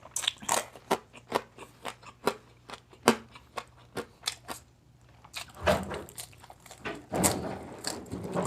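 Crispy food being bitten and chewed close to the microphone, most likely the deep-fried skin of crispy pata: a run of sharp, separate crunches in the first half, then denser, louder crunching in the second half.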